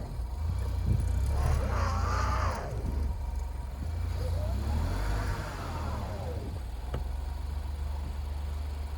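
Alfa Romeo Giulia Quadrifoglio's twin-turbo V6 revving up and dropping back twice as the stuck car tries to move in deep snow, over a steady low rumble.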